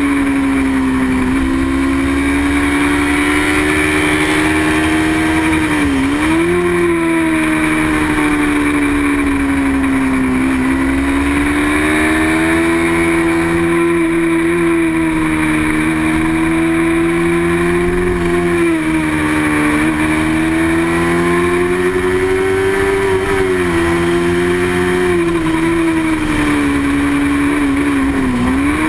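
Small-displacement racing motorcycle engine running hard at high revs, its pitch rising and falling gently and dipping sharply then climbing back about five times.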